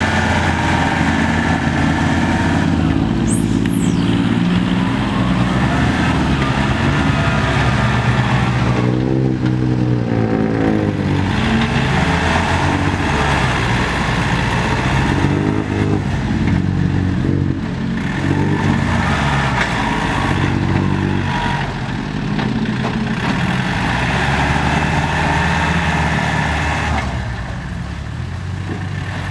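Diesel tractor engines running under load while pushing soil, their pitch rising and falling repeatedly as they rev up and ease off. A brief high-pitched squeal comes about three seconds in.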